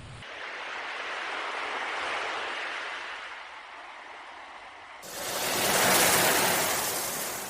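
Ocean waves washing in, with no foghorn or gull calls: a gentle surge, then an abrupt switch about five seconds in to a louder, fuller wave that peaks about a second later.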